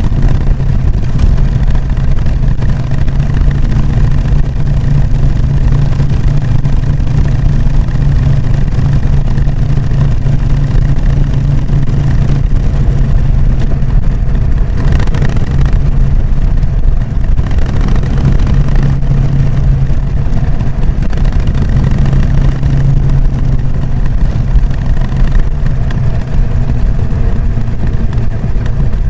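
Harley-Davidson Sportster XL883N Iron's air-cooled V-twin running through its stock exhaust: a loud, steady low rumble whose pitch barely changes, with a noisy hiss over it.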